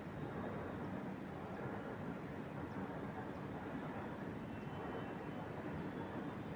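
Steady wind blowing through trees, with a few faint, brief bird chirps above it.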